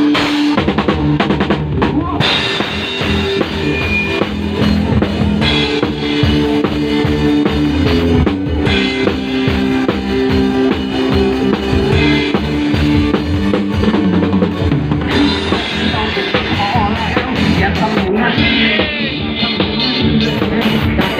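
Band music: a drum kit keeping a steady beat with bass drum and snare under sustained melody notes.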